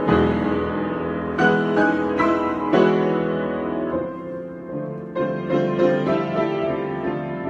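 Solo piano improvisation: a series of struck chords, getting softer about four seconds in, with a few quieter chords near the end left to ring.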